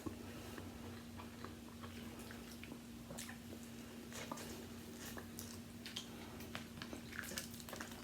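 Faint chewing and mouth sounds of someone eating seafood, with scattered small clicks and crackles, over a steady low hum.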